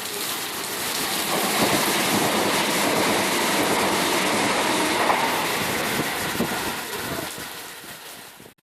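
A train passing through the station, its wheels clattering on the rails, swelling about a second in and fading away near the end before cutting off abruptly.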